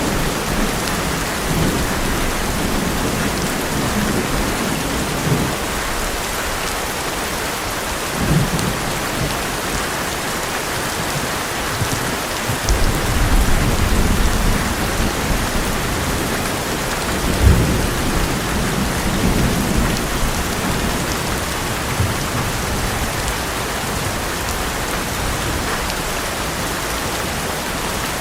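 Heavy rain drumming steadily on an old metal roof, with rolls of thunder rumbling low several times and one sharper crack of thunder about two-thirds of the way through.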